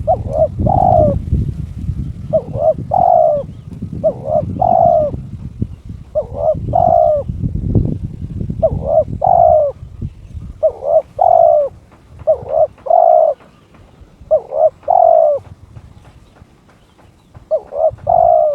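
Spotted dove (terkukur) cooing: a male in breeding condition giving its challenging call. It repeats a short two-note coo phrase about every two seconds, nine times in all, with a longer pause near the end. A low rumble lies underneath through the first half.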